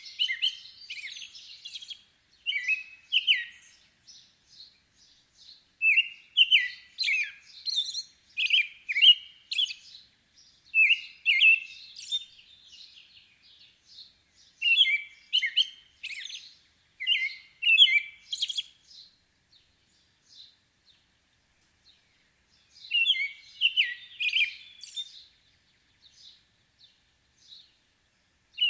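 Small songbirds chirping in quick bursts of high notes, a phrase every second or two, with a lull of a few seconds past the middle.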